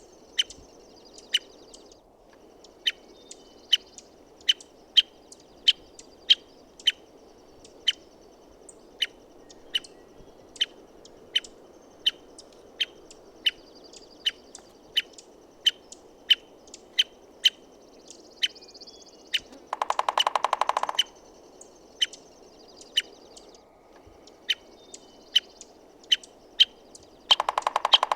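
American three-toed woodpecker giving sharp single call notes about once a second, with two short bursts of rapid drumming, one past halfway and one near the end. A steady background hiss and faint song of other birds run underneath.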